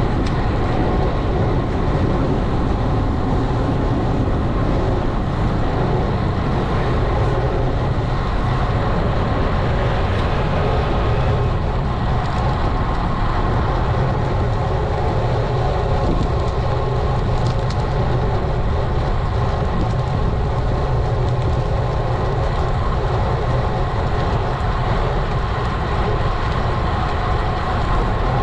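Steady rush of wind and road noise on a GoPro action camera's microphone while riding a road bike.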